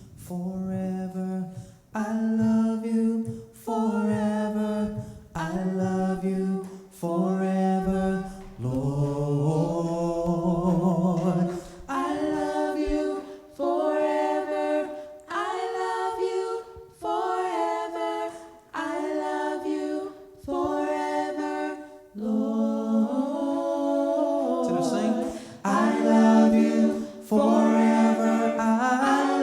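Unaccompanied (a cappella) hymn singing in slow phrases of long held notes, each a second or two, with short breaths between.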